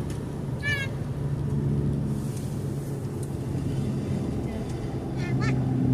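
Car on the move: a steady low hum of engine and road noise, with two brief high chirping sounds, one about a second in and one near the end.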